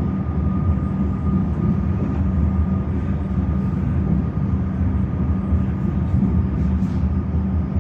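Electric suburban train running, heard from inside the carriage: a steady low rumble with a faint high steady whine over it.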